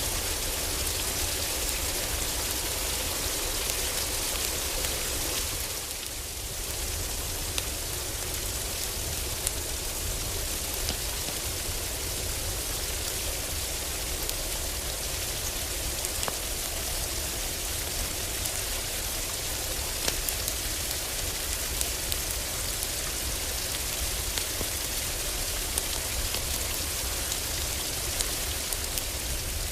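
Heavy rain on a roof, a steady dense patter with a low rumble beneath, with scattered sharp crackles and pops from a wood fire. The rain eases briefly about six seconds in.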